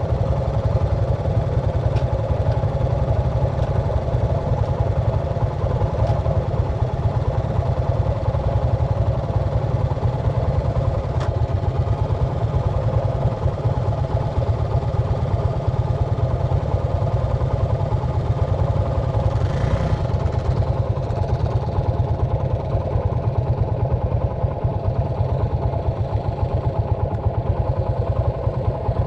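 A motor engine idling steadily at an even, unchanging pitch, with no revving.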